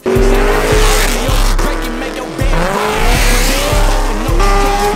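Performance cars accelerating hard, engines revving with a pitch that sweeps up and down; first a Chevrolet Camaro, then a Cadillac CTS-V sedan. Hip-hop music with a deep bass beat plays underneath.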